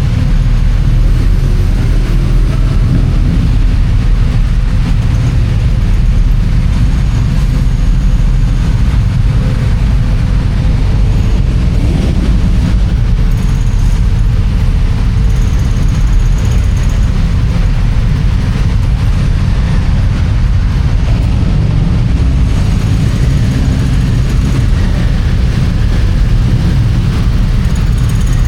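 Loud, steady low rumble of engines with a faint steady hum over it, typical of motorcycles being loaded onto a ferry's vehicle deck.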